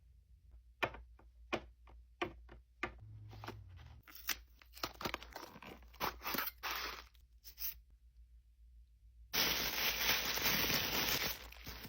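Toy packaging being handled and torn open: a string of sharp crinkles and crackles, then a long loud tearing rasp near the end.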